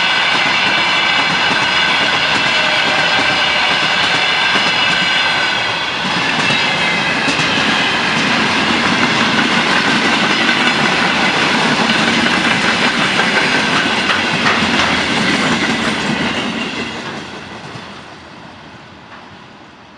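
Freight train's wagons passing at speed, steel wheels clattering over the rail joints. A high steady ringing sits over the clatter for the first six seconds, and the whole sound fades away over the last few seconds as the train moves off.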